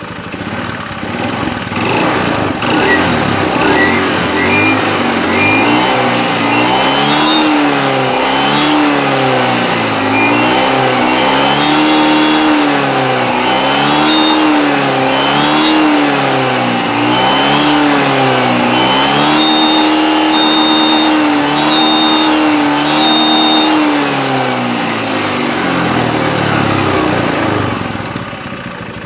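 Motorcycle engine fitted with a mini turbo from a Mitsubishi Canter truck, revved up and down over and over about every one to two seconds, with a thin high whistle at the top of the revs. Near the end the revs drop back to a steady idle.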